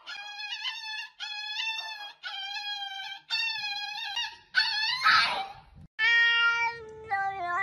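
Small poodle yelping in a run of about six high-pitched cries while its nails are being clipped. A short hissing rush comes about five seconds in. Near the end a cat lets out a long, drawn-out meow.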